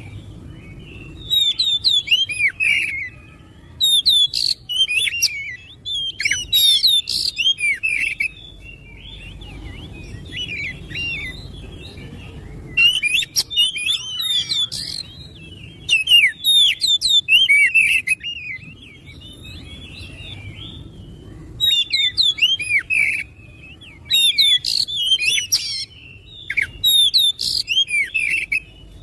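Oriental magpie-robin (kacer) singing: loud bursts of rapid, varied whistled and chattering phrases, each a second or two long, with short pauses between them.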